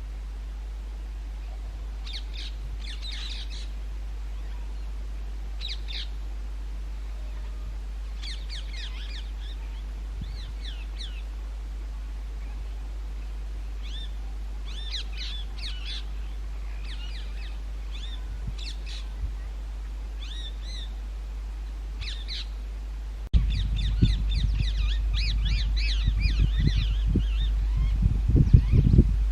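Rose-ringed parakeets calling, harsh high calls in short bouts every few seconds. About three quarters of the way through, an abrupt change brings in a loud low rumble under a denser run of calls.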